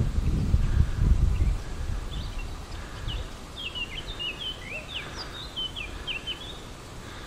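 A songbird singing a quick run of short, high, falling chirps, from about two seconds in until near the end. A low rumble fills the first second and a half.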